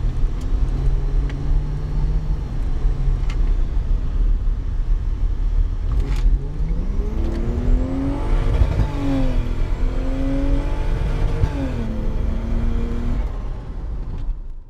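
Turbocharged Lexus 2JZ-GE VVT-i inline-six, heard from inside the cabin, running steadily at first and then taken to full throttle about six and a half seconds in: the engine note climbs, drops as the transmission shifts up, climbs again, and eases off near the end.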